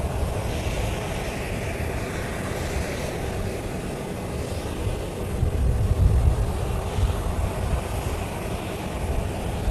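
Jet aircraft engines running: a steady rumble with a hiss above it, the low rumble swelling about six seconds in.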